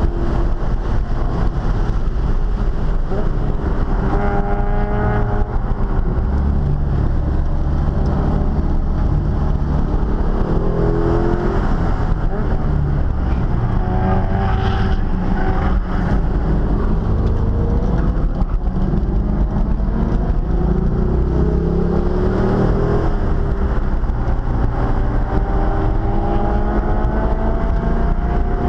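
Car engine heard from inside the cabin while driven hard on a race track: the revs climb and fall again and again, with a long climb near the end, over a heavy steady rumble of road and wind noise.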